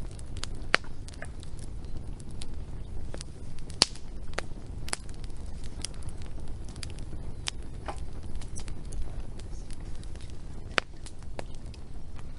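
Wood fire crackling, with irregular sharp pops and snaps of burning logs over a low steady rush of the flames; three louder pops stand out.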